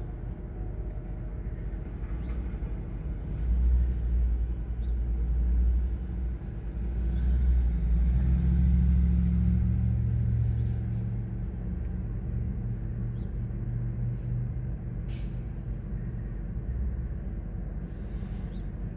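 A low engine rumble that swells for several seconds in the middle, then settles back to a steady drone.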